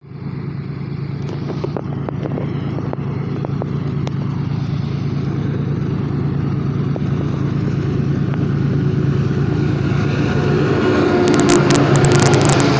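Train running, a steady low mechanical drone that grows gradually louder, with a few sharp clicks in the first seconds and a short crackle near the end.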